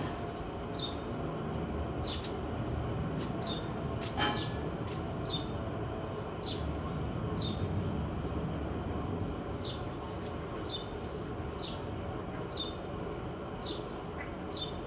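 A small bird chirping over and over, a short falling note about once a second, over a steady low background rumble, with a few sharp clicks and one louder click about four seconds in.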